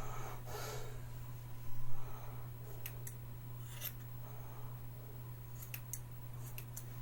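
Haircutting scissors snipping hair: a handful of short, sharp cuts, several close together near the end, over a steady low hum. A louder rustle comes just before two seconds in.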